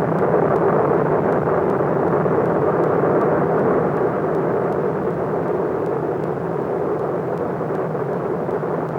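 Steady, dull rushing noise of Kilauea's lava fountain erupting, easing slightly in level over the last few seconds.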